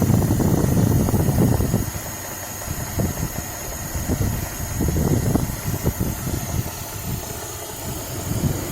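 Suzuki H27A 2.7-litre V6 engine running at idle with an intermittent knock. The owner says the knock has been there since he bought the car and remains after the timing chain was replaced; he doubts it is the camshafts knocking.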